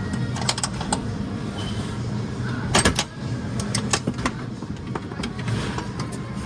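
A steady low mechanical hum with a scattering of sharp clicks and knocks, the loudest a cluster about three seconds in.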